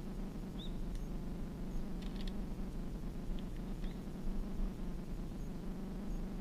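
Quiet forest ambience: a low, steady rumble with a few faint, short, high chirps scattered through.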